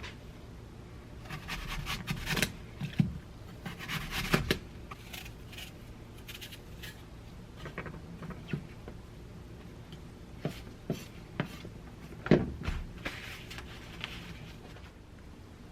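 Scattered clicks, knocks and scraping from objects being handled, with the loudest knock about 12 seconds in.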